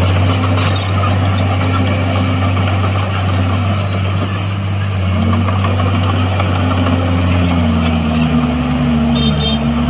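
Heavy diesel construction machinery running steadily. A second, lower engine note joins about three quarters of the way through.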